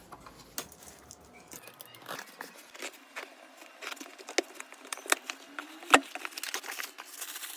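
Cardboard parcel being opened by hand: packaging rustling and tearing, with scattered clicks and taps and one sharp knock about six seconds in.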